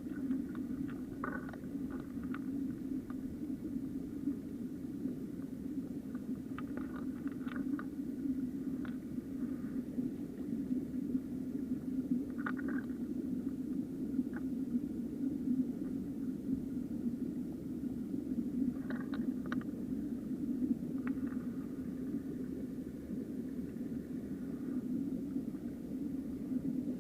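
Small mountain stream rushing steadily, with scattered short clicks and rattles every few seconds.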